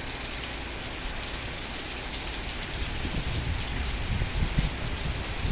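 Heavy rain pouring down steadily, with low rumbles coming and going from about halfway in.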